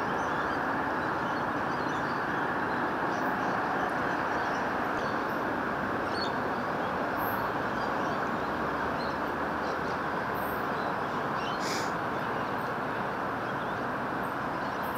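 Electric suburban train running along an elevated concrete viaduct, heard as a steady, even noise, with a few faint bird chirps above it.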